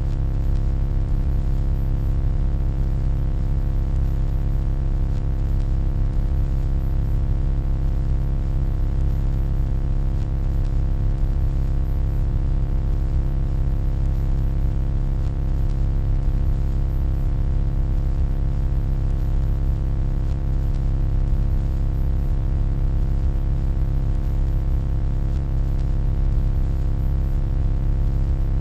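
Steady electronic hum: a deep low drone with many steady overtones above it and a faint hiss, unchanging throughout.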